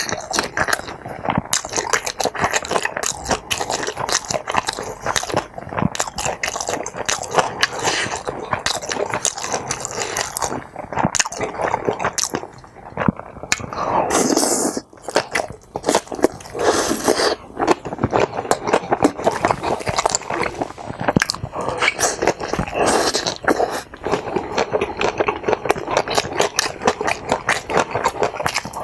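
Close-miked chewing and mouth sounds of someone eating tteokbokki and kimbap: a dense run of small clicks and smacks, with a couple of louder hissy stretches about halfway through.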